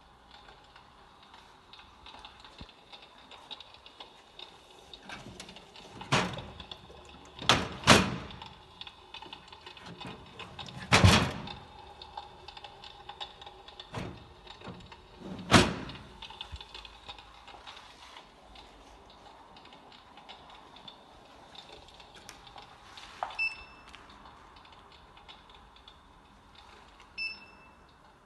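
Crackling log-fire sound effect from an electric fireplace: a soft, steady crackle with several loud irregular pops and snaps in the first half. Near the end there are two short electronic beeps.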